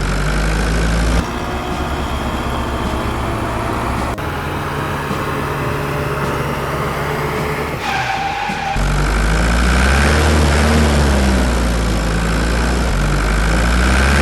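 Heavy vehicle engine sound effects running steadily, in several segments that change abruptly. About ten seconds in, the pitch rises and falls as if revving.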